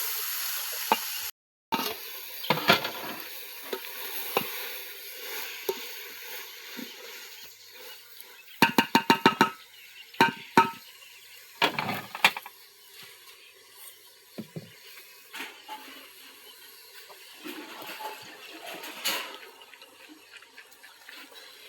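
Cooking pots and metal utensils clinking and scraping in scattered strikes, including a quick run of about eight clinks partway through. A hiss of steam plays in the first second.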